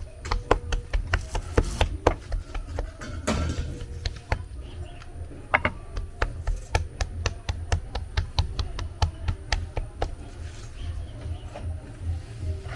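Irregular taps and knocks, several a second, as food is worked with kitchen utensils, over a steady low rumble.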